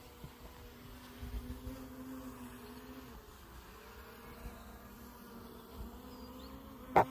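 Small quadcopter drone's propellers buzzing steadily, the pitch wavering slightly as it flies. A single sharp click comes near the end.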